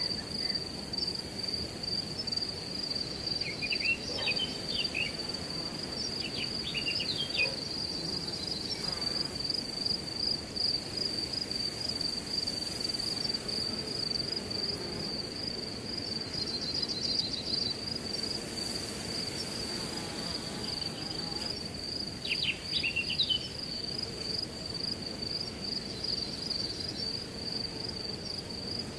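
Crickets trilling steadily at one high pitch over a low, even rush of wind in grass. A few short bird chirps come in three times, at about 4, 7 and 23 seconds.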